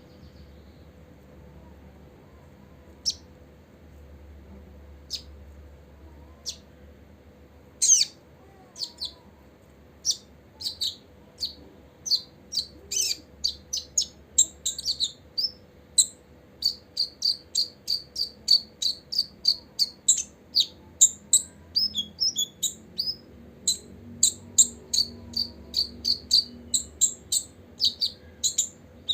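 Copper-throated sunbird calling with sharp, high chips. A few come singly at first; about eight seconds in they quicken into a twittering series, which settles into a fast, steady run of about three chips a second.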